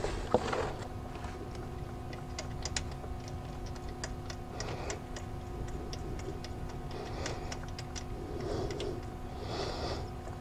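Ratchet and socket clicking in short, irregular runs while a starter mounting bolt is run in, over a faint steady hum.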